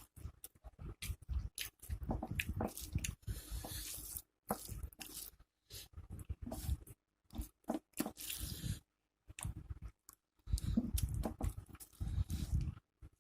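Close-miked chewing and crunching as a person eats rice, curry and fried pakoras, in irregular short bursts with brief silent gaps.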